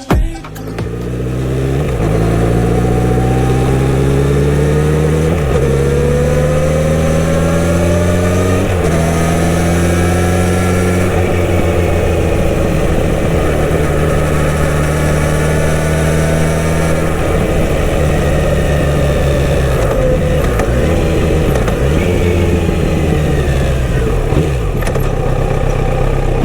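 Kawasaki Z900RS inline-four on its stock exhaust accelerating, the pitch climbing and dropping at upshifts about five and nine seconds in. It then runs at a steady engine speed and eases off, the pitch falling and wavering, in the last third.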